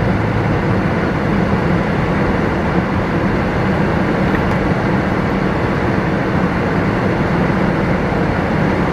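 Steady road and engine noise from inside a moving car's cabin, an even rumble with no change.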